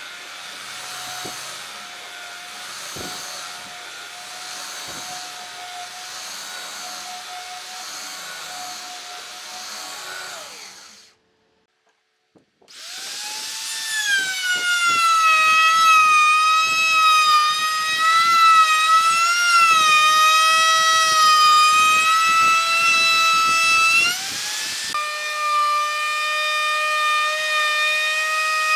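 An electric power tool's motor running with a steady whine. It cuts out about eleven seconds in. After a short gap a louder one starts up, its pitch wavering as it works, and it settles to a steady pitch near the end.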